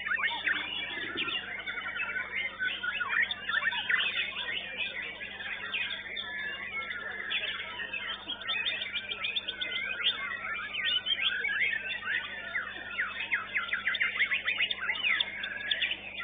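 Caged white-rumped shamas singing at once: a dense, overlapping stream of rapid chirps, whistles and trills, over a steady low electrical hum.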